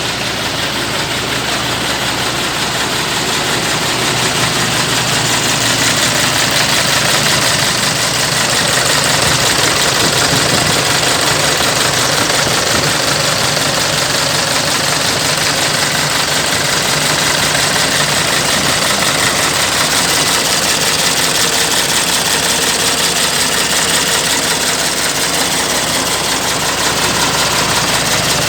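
Iveco 420 hp diesel engine fitted in a CAMC truck, idling steadily.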